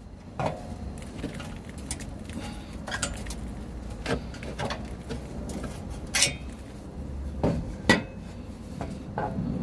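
Metal tools clinking and scraping against a rusted exhaust pipe joint while prying off the old exhaust flange gasket ring. The clinks come at irregular intervals, with sharper ones about half a second in, around six seconds, and a close pair about three-quarters of the way through.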